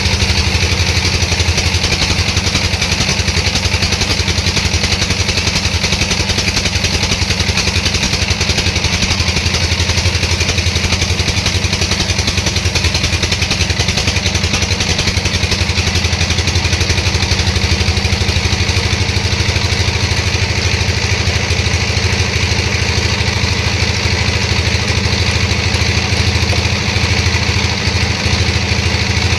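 Sawmill machinery running steadily, a continuous engine-driven drone that holds the same level and pitch throughout.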